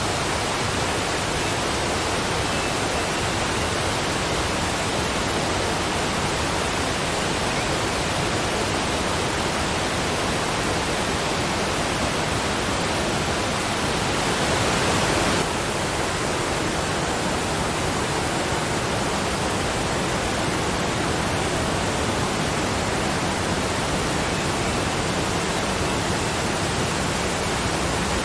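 Waterfall: a steady, dense rush of falling water. About halfway through it swells slightly, then drops back suddenly.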